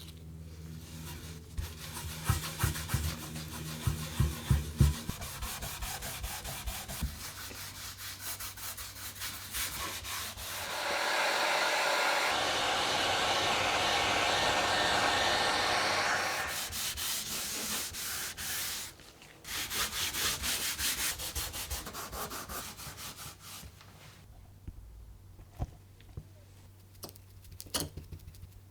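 Sanding: abrasive rubbing with many scratchy strokes and small clicks, steadiest and loudest for about five seconds in the middle. A low hum with clicks runs for the first few seconds, and the rubbing thins out to scattered light taps near the end.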